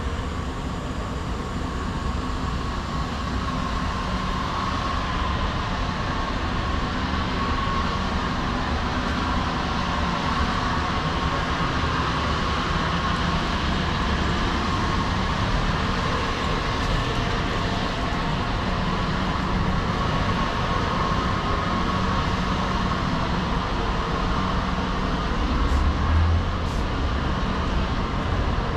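Steady city street noise dominated by motor traffic: engines running with a low hum beneath an even wash of noise. There is a brief low swell near the end.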